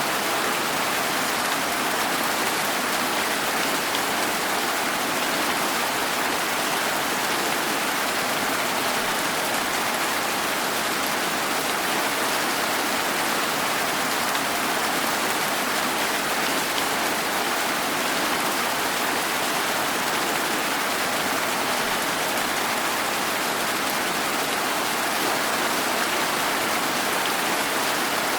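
Steady rain falling, an even hiss with no separate drops, thunder or other events standing out.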